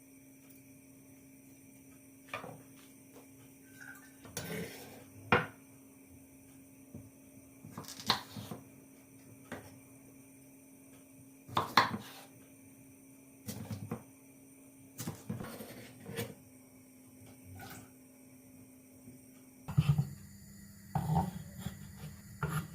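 Dishes and utensils being handled in a kitchen: scattered knocks and clinks of crockery and cutlery, a dozen or so, more frequent near the end, over a faint steady hum.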